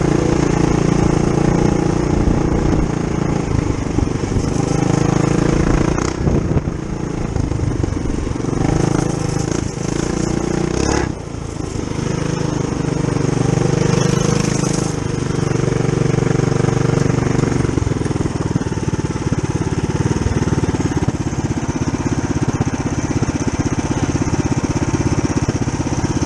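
Mini bike's single-cylinder Tillotson 212cc four-stroke engine, governor removed, running under load on a trail ride, its note rising and falling with the throttle and dropping briefly about eleven seconds in.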